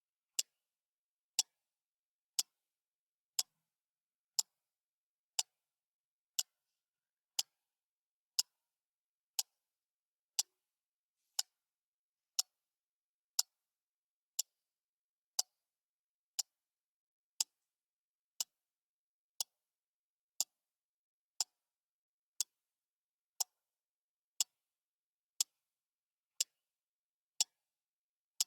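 Clock ticking steadily once a second: sharp, bright ticks with nothing heard between them.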